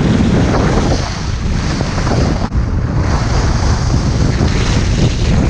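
Strong wind buffeting the microphone during a ski run, a loud steady rush with a heavy low rumble and a brief dropout about two and a half seconds in.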